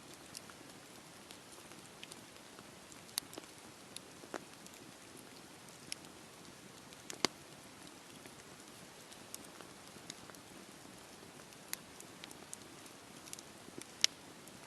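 Wood fire crackling in a fireplace: a faint steady hiss with irregular sharp pops and snaps, the loudest about seven seconds in and near the end.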